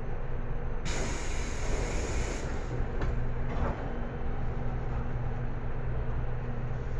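Running noise inside a JR Kyushu 811 series electric train car, a steady low hum from the train under way. About a second in, a hiss lasts about a second and a half.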